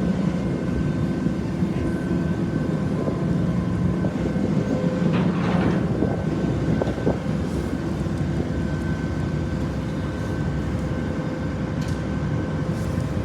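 Steady low engine drone of a lake passenger boat, heard on board, with a few faint steady tones above it.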